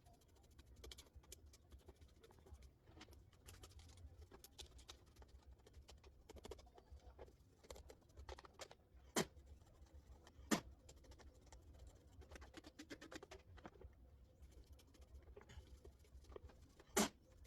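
Faint scratching, rubbing and light tapping as dust-caked fan parts are cleaned by hand, with two sharper clicks about nine and ten and a half seconds in and another near the end.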